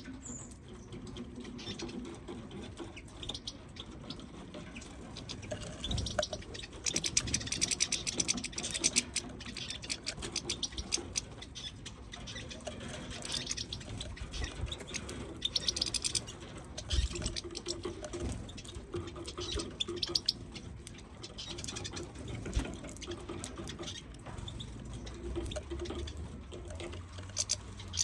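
Finches pecking at and cracking hemp seeds: a continuous patter of quick clicks and taps, with an occasional low bump.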